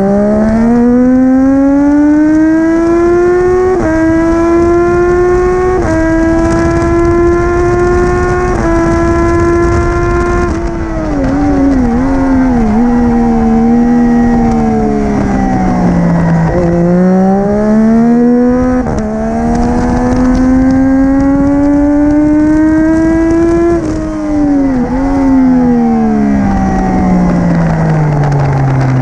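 Triumph Daytona 675R's three-cylinder engine through an Arrow full titanium race exhaust, pulling up through several gears with the pitch climbing in steps. About ten seconds in it falls away through quick blipped downshifts, then climbs again and drops once more near the end.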